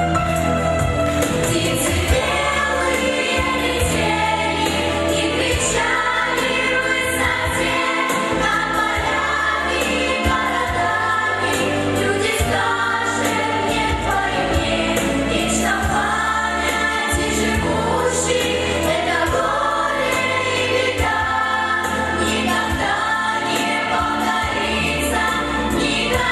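A vocal group singing in unison or harmony over a backing track with bass and light percussion.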